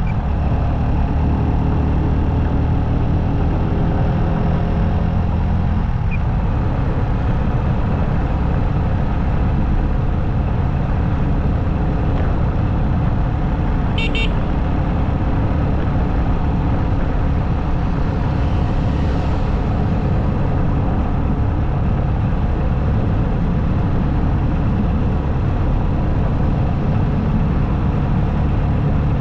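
Motorcycle engine running steadily under road and wind noise while riding. A short vehicle-horn toot sounds about halfway through.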